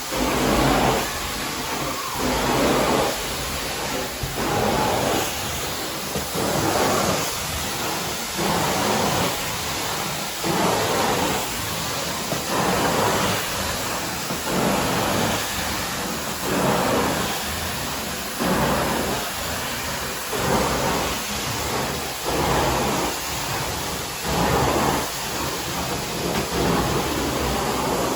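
Vacuum cleaner running over carpet and pushed back and forth, its noise swelling and easing about every two seconds with each stroke.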